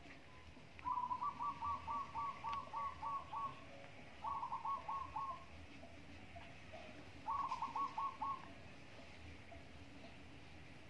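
A bird calling in three runs of evenly repeated notes, about four a second. The first run lasts nearly three seconds, and two shorter runs follow.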